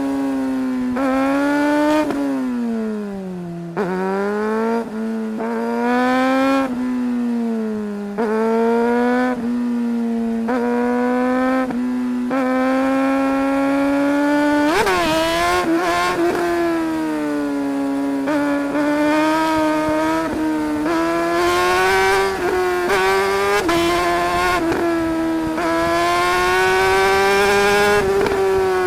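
2008 Suzuki GSR 600's inline-four engine under hard acceleration, its pitch climbing and then dropping sharply at each gear change, over and over. About two seconds in, the revs fall away for a moment as the bike slows, and then it pulls hard again.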